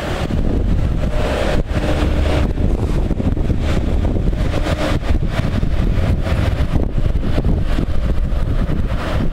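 Renfe AVE Series 100 high-speed train rolling slowly past, a steady low rumble, with wind buffeting the microphone.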